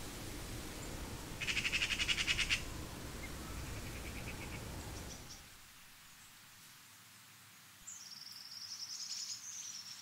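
Birds singing over a low background hush. A loud rapid trill comes about a second and a half in, with fainter calls after it. A high, wavering song starts near the end. The low background noise drops away about halfway through.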